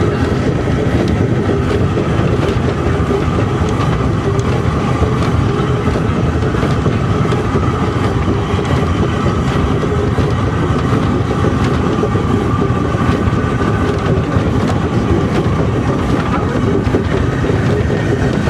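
A train running steadily, its wheels rumbling and clattering on the track, with a faint steady whine above.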